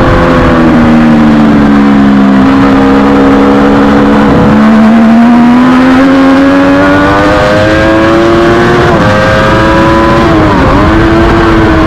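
Triumph Daytona 675R three-cylinder racing engine running hard under load. The revs ease at first, climb steadily through the middle, drop suddenly near nine seconds at a gear change, and dip briefly again near the end.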